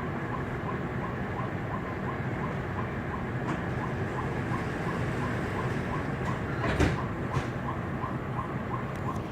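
Frankfurt U-Bahn train running between stations, heard inside the car: a steady rumble with a faint tick repeating about three times a second. About seven seconds in there is a brief knock, followed by a smaller one.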